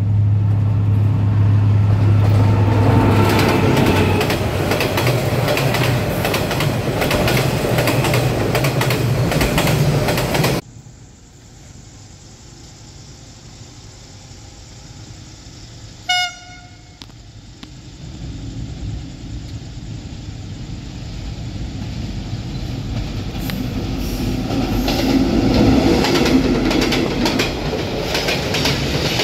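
Diesel-hauled train rumbling loudly as it runs in. The sound cuts off abruptly partway through, and a short horn blast follows. Then a freight train's boxcars approach and pass close by, the rumble of wheels on rails growing steadily louder.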